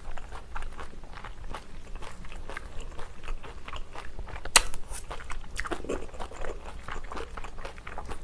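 Close-miked chewing of a mouthful of stir-fried pork tripe, sundae and glass noodles wrapped in kimchi: a quick, uneven run of small mouth clicks, several a second. One sharp click about halfway through stands out as the loudest.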